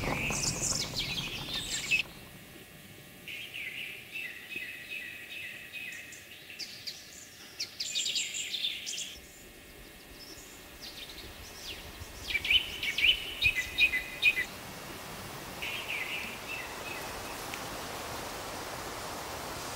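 Songbirds singing in short phrases of high, rapid chirps, with pauses between phrases and the loudest calls about twelve to fourteen seconds in. A steady hiss follows near the end.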